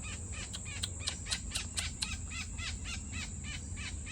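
A bird calling in a rapid, even series of short chirps, about five a second, over a steady high insect drone.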